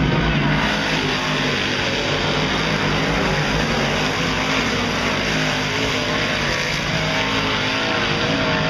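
A pack of big-block dirt modified race cars running at speed around the track: many engines overlap in a steady loud din, their pitches wavering up and down as the cars pass.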